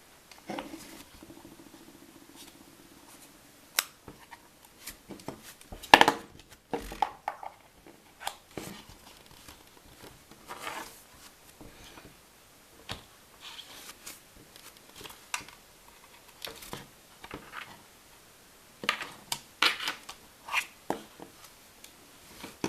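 Handling noises: a string of irregular clicks, knocks and scrapes, the loudest knock about six seconds in, with a short low buzz near the start.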